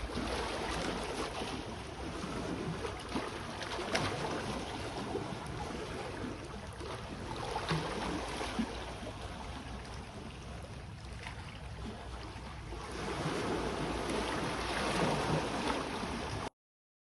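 Sea waves washing onto the shore, a steady wash that swells twice, then cuts off suddenly near the end.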